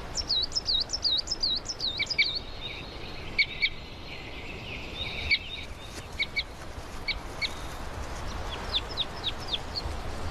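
Small birds calling: a quick run of about eight high, curving chirps in the first two seconds, then scattered short notes, and a run of five falling notes around nine seconds in, over a steady low outdoor hiss.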